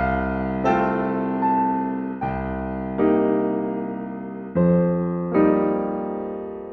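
Background music: slow, soft piano chords struck one after another, each left to ring and fade.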